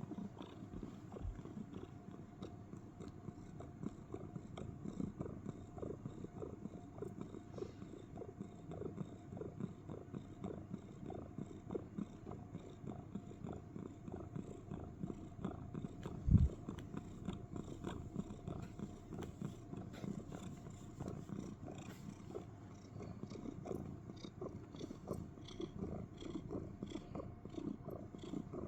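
Domestic cat purring steadily, close up. A single low thump about halfway through.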